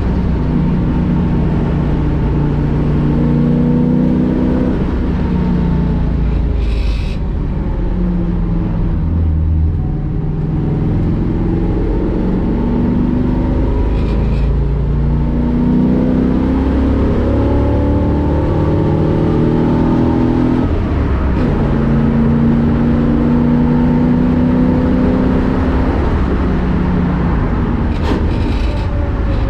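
1965 Ford Mustang race car's V8 engine heard from the cockpit at speed, revving up through the gears, its pitch climbing and then dropping at each gear change or lift, over and over. A few short clicks sound about a quarter and half way in and near the end.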